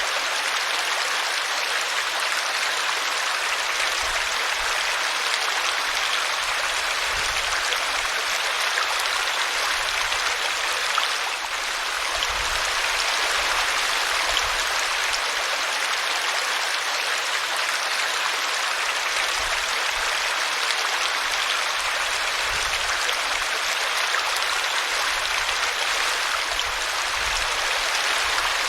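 Small brook running over a tree root: a steady rush of flowing water.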